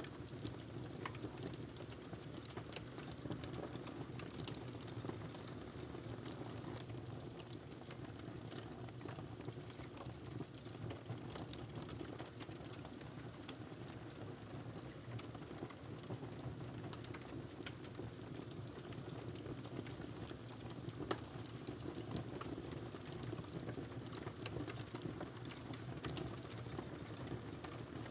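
Wood fire crackling in a fireplace: a steady low rumble with irregular small pops and snaps, one louder snap about three quarters of the way through.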